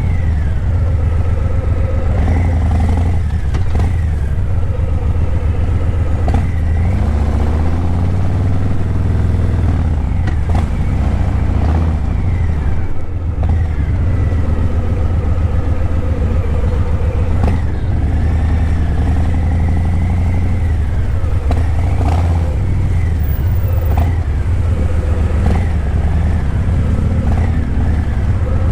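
Harley-Davidson Breakout 117's Milwaukee-Eight 117 V-twin running through Vance & Hines Eliminator 300 slip-on mufflers while riding, with a deep rumble, revving up and easing off again and again, and a few short clicks along the way.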